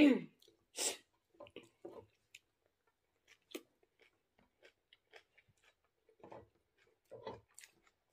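Close-up chewing of a mouthful of rice and cooked kangkong, with soft wet mouth clicks and smacks. A louder smack or slurp comes right at the start, and another about a second in.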